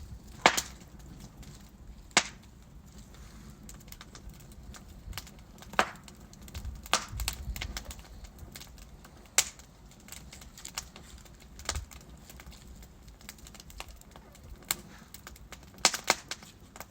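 Burning logs in a wood fire crackling, with sharp irregular pops and snaps, the loudest about half a second in, about two seconds in and near the end, over a faint low rumble of the flames.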